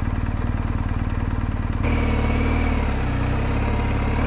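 A BMW R1250 GS Adventure's boxer-twin engine runs at low revs, then gets louder about two seconds in as the bike is ridden on.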